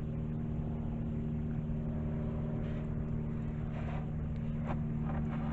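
Steady low hum of a running engine, holding one pitch throughout, with a few faint knocks and rustles in the second half.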